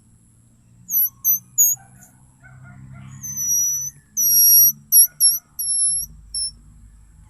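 High squeaky whistle notes blown on a wild flower: three short squeaks about a second in, then longer level notes mixed with quick squeaks, stopping a little after six seconds.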